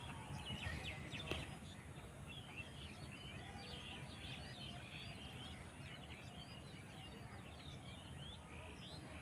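Small birds chirping and twittering, many short calls overlapping, over a low steady background rumble.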